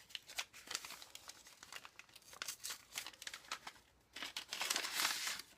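Paper and packaging crinkling and rustling as craft supplies are handled and unpacked, in irregular crackles with a denser, louder crinkle near the end.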